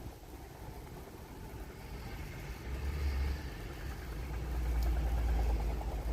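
A train's low engine and motor rumble, growing louder from about halfway through as the train draws near.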